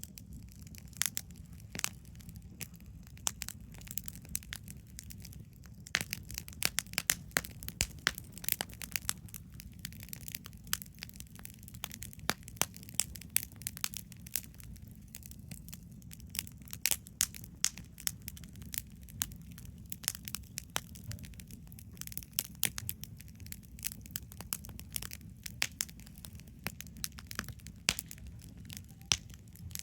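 Wood campfire crackling, with irregular sharp pops and snaps several times a second over a steady low rumble.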